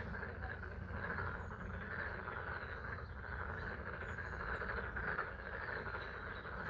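A chorus of many frogs calling continuously and densely, over the steady sound of rain falling on a pond.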